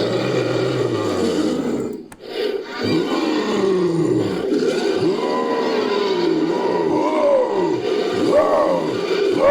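Made-up creature sound effect built from big-cat roars: a continuous roar that breaks off briefly about two seconds in, then a run of wavering calls that rise and fall in pitch.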